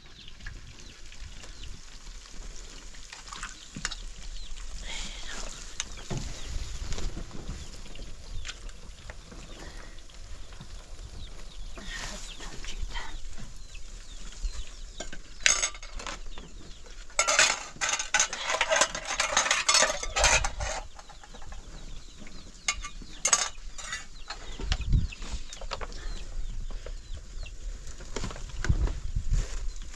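Chickens clucking, with a louder run of rapid cackling a little past the middle.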